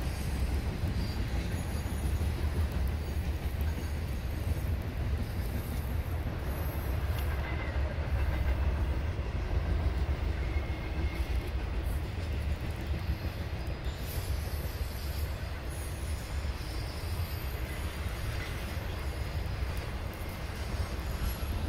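Intermodal freight cars with double-stacked containers rolling past, a steady low rumble with faint high wheel squeals now and then.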